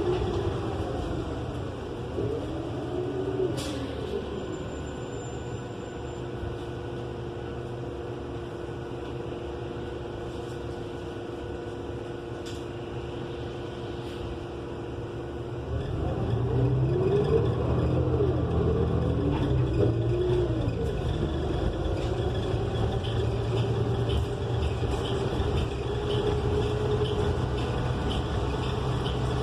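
Cabin sound of a 2018 New Flyer XN35 bus with a Cummins Westport L9N natural-gas engine and Allison transmission, loud with the HVAC off. The drivetrain whine falls in pitch as the bus slows, and a steady hum holds for about ten seconds. Just past halfway the engine gets louder as the bus pulls away, its pitch rising and dropping through the gear changes.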